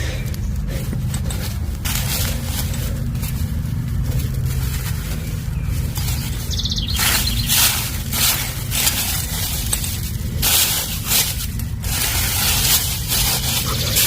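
Soil and garden debris being scraped and shuffled while a bulb's planting hole is worked and filled in, a run of short rustling scrapes coming thick from about seven seconds in. A steady low hum sits underneath.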